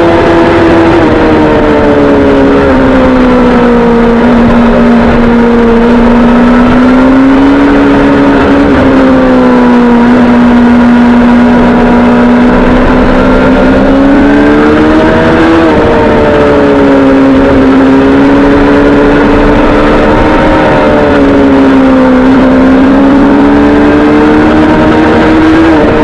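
Suzuki GSX-R sport motorcycle engine running hard under the rider, loud throughout. Its pitch sinks over the first few seconds, holds, then climbs sharply about halfway through and again at the end as the throttle opens.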